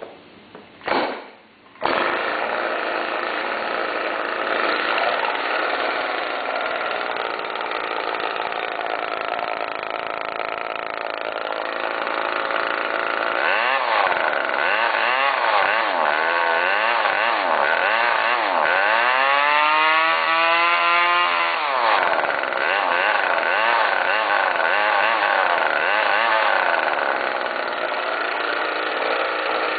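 Small two-stroke weedeater engine on a motorized bike, with a modified muffler, pull-started: a pull about a second in, and it catches within a second and runs loud. It is revved up and down repeatedly through the middle, with one long rev held and then dropped, before settling back to a steady run.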